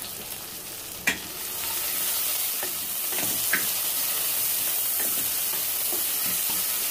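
Chopped onions, curry leaves and turmeric frying in hot oil in a pressure-cooker pot: a steady sizzle that grows louder about a second and a half in, with the clicks and scrapes of a wooden spatula stirring against the pot, one sharp knock about a second in.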